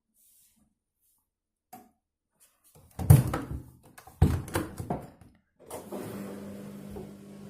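Washing machine: a few loud thuds and knocks, then a steady running hum starting a little past two-thirds of the way through.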